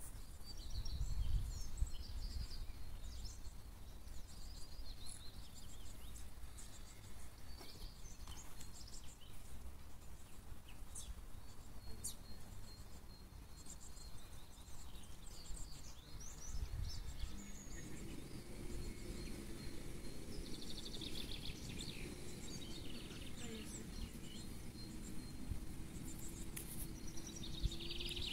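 Small birds chirping and calling on and off over a low rumble. A steady hum comes in about two-thirds of the way through and holds to the end.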